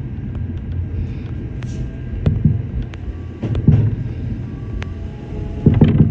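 Shinano Railway SR1 series electric train running, heard from inside the car: a steady low rumble with sharp knocks and clicks from the running gear, the loudest cluster near the end.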